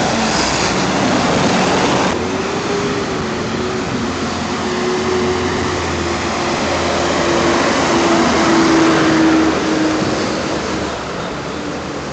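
Vintage tractor engines running steadily as tractors pass, a low rumble under an engine tone that drifts slightly in pitch.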